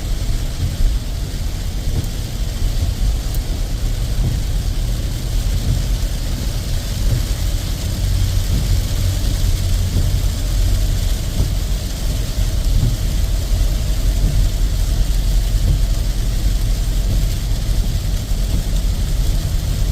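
A vehicle driving in rain: a steady low road-and-engine rumble with an even hiss of rain and wet road on top.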